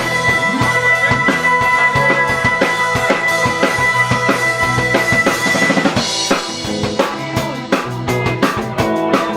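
Rock band playing live: the drum kit keeps a steady beat under sustained guitar chords, and the music gets a little quieter and sparser about six seconds in.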